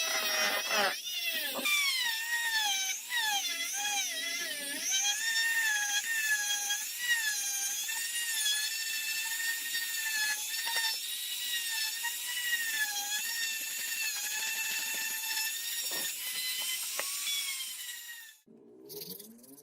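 Small high-speed rotary power tool running with a whine that wavers in pitch as it bears on the work, cutting off near the end.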